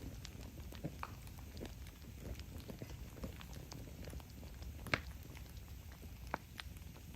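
Campfire burning: a low steady rumble of flames with scattered crackles and small pops of burning wood, one sharper pop about five seconds in.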